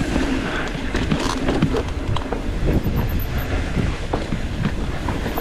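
Mountain bike rolling downhill over a loose dirt trail: tyres crunching on dirt and stones, with the bike rattling over bumps in a dense run of small knocks, and wind buffeting the microphone.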